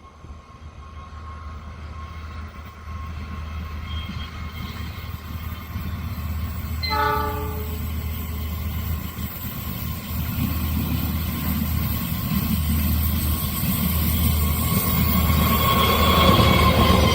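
Train approaching, its low rumble growing steadily louder, with one short locomotive horn blast about seven seconds in; near the end, higher-pitched rail and wheel noise builds as it draws close.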